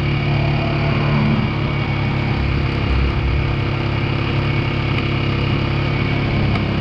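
2002 Yamaha 225 motorcycle engine running steadily. The bike has a clunking noise from the clutch area, which the owner suspects is in the transmission or clutch.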